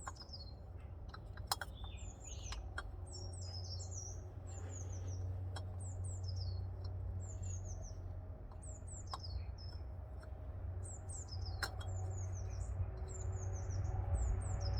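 Small birds chirping: many short, high chirps that fall in pitch, in quick runs of two to four, over a steady low hum, with a few sharp clicks about a second and a half in and near twelve seconds.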